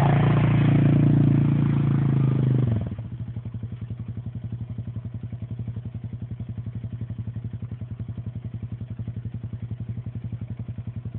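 An engine running, louder at first and then dropping to a steady, evenly pulsing idle about three seconds in.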